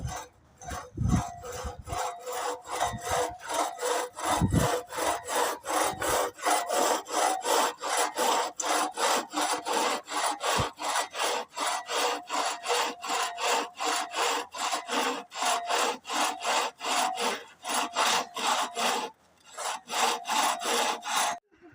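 Hand saw cutting firewood with fast, even back-and-forth strokes, about three or four a second, the blade ringing faintly; the sawing pauses briefly near the end, then resumes for a few more strokes. A few dull low thumps sound in the first few seconds.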